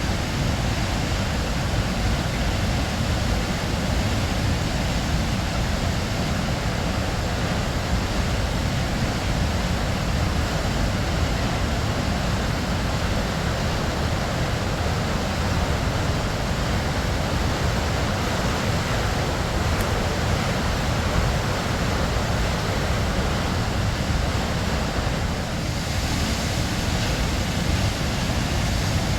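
Waterfall: water falling and splashing as a steady, even rush of noise with a strong low rumble underneath.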